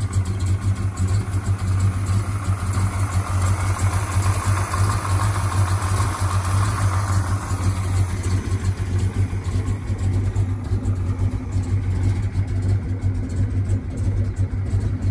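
1966 Dodge Coronet's 426 Hemi V8 idling steadily, low-pitched with a fast, even pulse.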